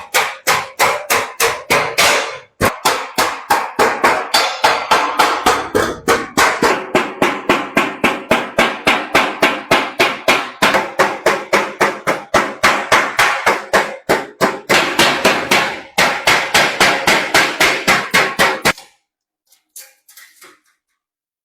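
Rapid hand-hammer blows on brass sheet, about four a second with a few short pauses, stopping a few seconds before the end. The brass rim is being hammered over a steel rod to stiffen the edge of the basin.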